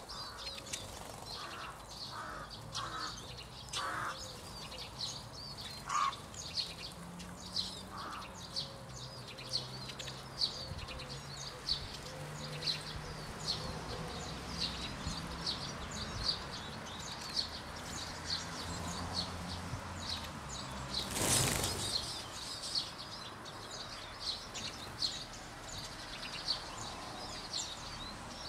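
A flock of Eurasian siskins at a bird table, giving many short high chirping calls throughout, with wings fluttering as birds fly off and on. One short, loud rustle stands out about two-thirds of the way through.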